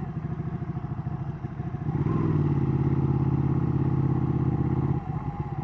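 Ducati Panigale's V-twin engine heard from the bike while riding. About two seconds in the throttle opens and the engine gets louder, holding a steady pitch, then eases back shortly before the end.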